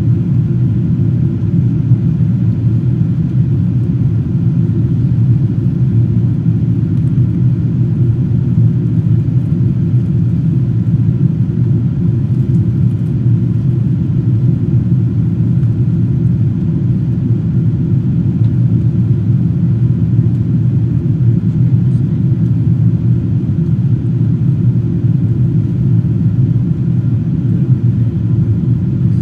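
Steady cabin noise inside a Boeing 777-200ER in flight: an even, deep rumble of engines and airflow heard from an economy window seat.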